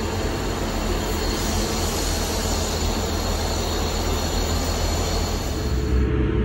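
South Western Railway diesel multiple unit at the platform, its engines running with a steady low rumble and a faint high whine. Near the end the sound changes to the duller, stronger rumble heard inside the carriage.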